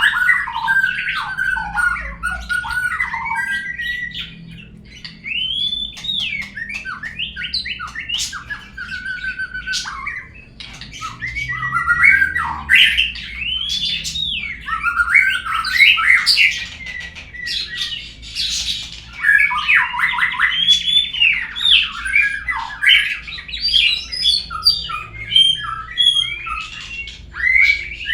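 Murai songbird singing a long, varied song of clear whistles, sweeping notes, harsh chatters and quick trills with hardly a pause: a murai lure song, played to prompt other birds to sing. A low steady hum lies under it.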